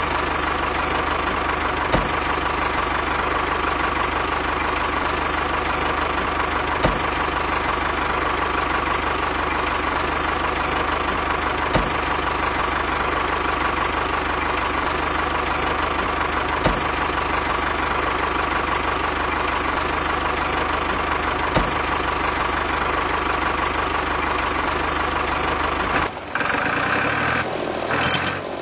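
Small motor of a home-built mini tractor running steadily with an even hum and a faint click about every five seconds. Near the end the sound changes abruptly.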